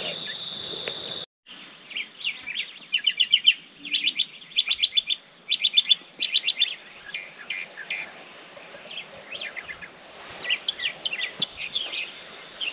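Songbirds calling in quick trilled phrases of high chirps, one burst after another, over a faint steady high whine.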